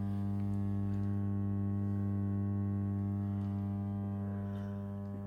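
Small stick (electrode) welder switched on and idling, giving off a steady, loud electrical hum with a 100 Hz drone and higher overtones. It grows slightly louder towards the middle and then eases.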